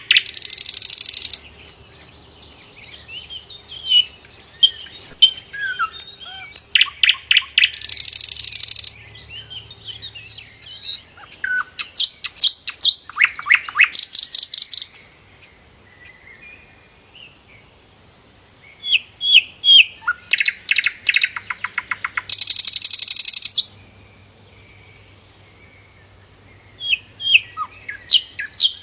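Sikatan londo flycatcher singing: sharp high chirps and whistled notes broken by fast, buzzy rattling trills, delivered in bursts with a couple of pauses of a few seconds.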